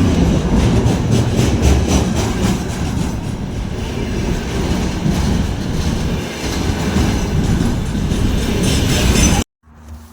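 A train passing at speed close by, its wheels clattering over the rail joints, until the sound cuts off suddenly near the end.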